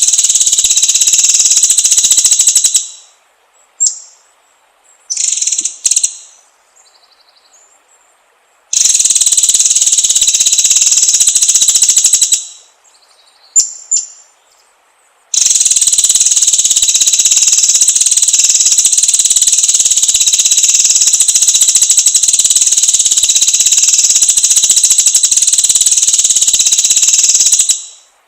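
White-rumped shama (murai batu) singing. It gives long, rapid, high-pitched trills that run for several seconds at a time, the last about twelve seconds, with short chirps in the pauses between.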